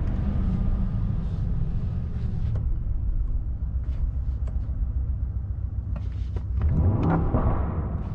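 Mercedes-AMG S63's twin-turbo V8 running with a steady low rumble, getting louder near the end with a few short sharp cracks.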